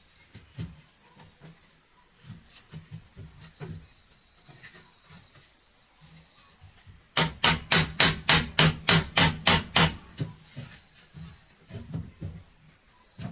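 Hammer striking wood, likely driving nails: light scattered taps, then a quick run of about a dozen sharp blows, about five a second, starting about halfway through, then more light taps. A steady high drone of crickets or other insects runs underneath.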